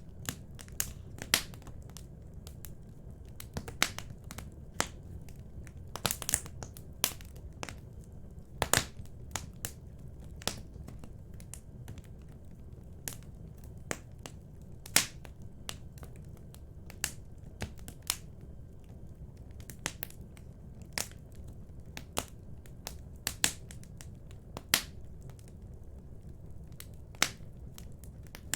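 Fire in a fireplace crackling: irregular sharp pops and snaps, some much louder than the rest, over a low steady rumble of the flames.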